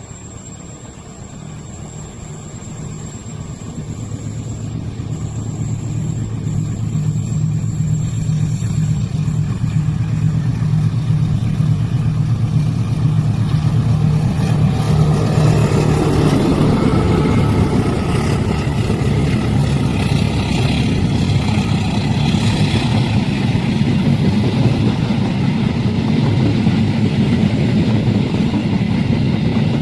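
Diesel locomotive approaching, its engine drone growing steadily louder over the first dozen seconds, then the train's cars rolling past with a broad, steady rushing rumble.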